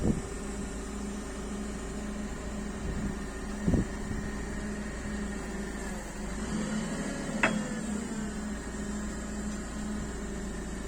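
Forklift running with a steady mechanical hum that pulses slightly, with three short clunks: one at the start, one about four seconds in and one about seven and a half seconds in.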